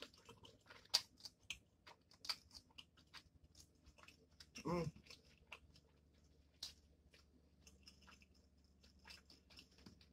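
Close-up eating sounds of a person chewing cheesy spicy ramen noodles: quiet wet chewing and lip smacks as scattered sharp clicks, with a short hum about five seconds in.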